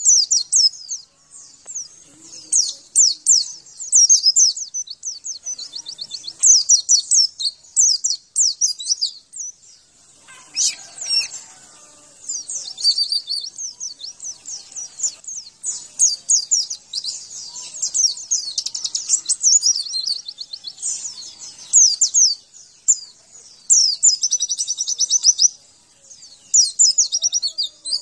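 Pleci (white-eye) song: fast, very high-pitched twittering trills and warbles in long phrases broken by short pauses.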